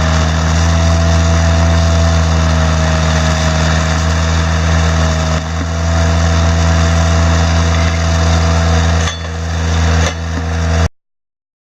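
An engine running steadily, with a steady whine above its hum; it dips in level a few times and cuts off suddenly near the end.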